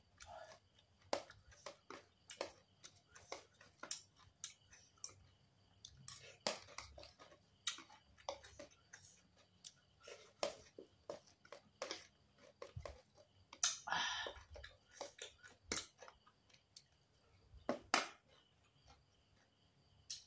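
Close-miked chewing of a mouthful of papaya salad, with many short, wet mouth clicks and smacks, a brief breathy hiss about fourteen seconds in, and one sharper click near the end.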